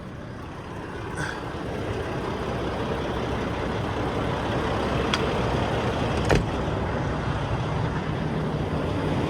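Semi truck driving: engine and road noise build over the first few seconds as it picks up speed, then hold steady. A few sharp clicks or rattles sound along the way.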